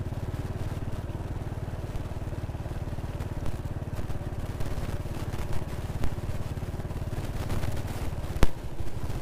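Small motorcycle engine running at low, steady revs, with scattered knocks and one sharp click about eight and a half seconds in.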